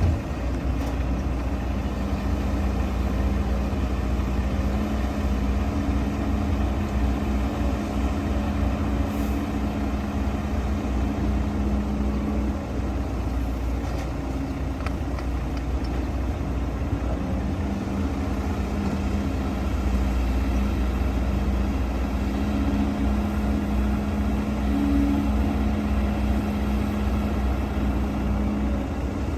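Heavy diesel earthmoving machinery running steadily, with a low hum that drops out for a few seconds midway.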